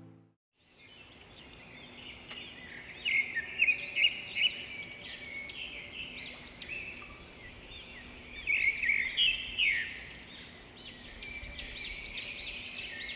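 Several birds chirping and calling at once in a busy chorus of quick, high, overlapping notes, with louder flurries a few seconds in and again near the middle. A faint steady hum runs underneath.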